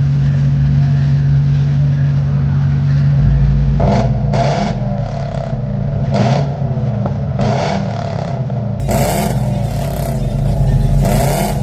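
Car engine running with a steady low drone, joined from about four seconds in by short, louder bursts every second or two.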